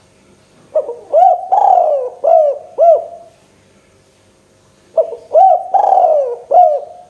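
Spotted dove (tekukur) cooing: two loud phrases of about five arching coos each, the first about a second in and the second about five seconds in.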